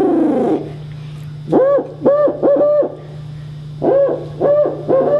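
A person imitating a barred owl's hoot: the falling tail of a long hoot, then two quick runs of three short hoots, and a long drawn-out hoot beginning near the end, in the owl's rhythmic 'who cooks for you' series.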